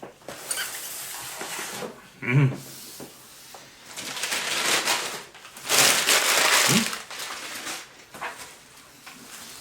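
Wrapping and packaging rustling and crinkling as a gift is handled and unwrapped, in uneven spells that are loudest near the middle and end. Two brief voice sounds come through, about two seconds in and again near the end.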